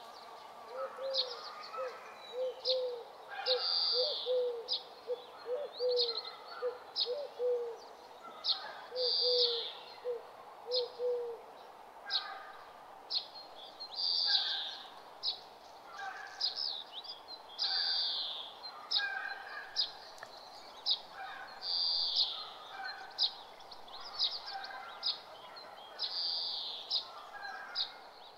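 Birds calling in a woodland ambience: a fuller call about every four seconds with many short, sharp chirps between them, over a steady faint background hiss. A lower, rapid series of short chirps runs through the first half and stops a little before halfway.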